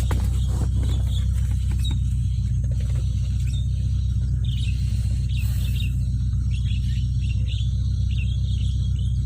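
Vehicle engine running with a steady low hum, a sharp click right at the start, and a bird chirping over it again and again from about halfway in.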